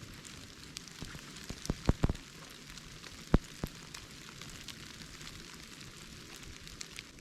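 Wood campfire crackling: a steady hiss with scattered small ticks and a few sharp pops, the loudest a cluster about two seconds in and a single snap just after three seconds.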